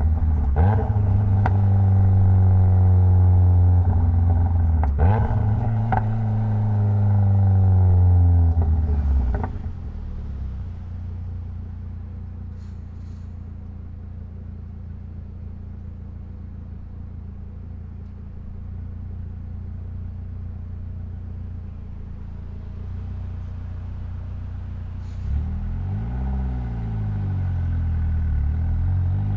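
Mitsubishi Lancer Evolution X's turbocharged 2.0-litre four-cylinder engine. For the first nine seconds it runs loud under load, its note sliding down twice. It then drops to a steady low hum at idle, and rises and falls again near the end.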